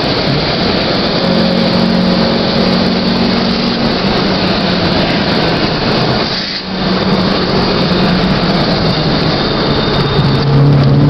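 Honda Civic's engine running under throttle, heard from inside the cabin over heavy wind and road noise. The engine note drops out briefly about six and a half seconds in, then comes back and grows louder near the end.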